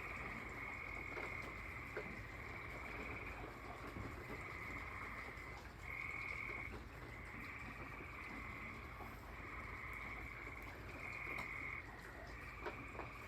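A chorus of tree frogs trilling, with many overlapping calls each under a second long. Behind them is a steady hiss of rain, with a couple of sharp drips.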